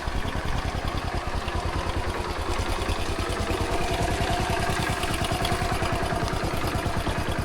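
Hero Honda CD100's single-cylinder four-stroke engine running steadily, its exhaust beats coming fast and even.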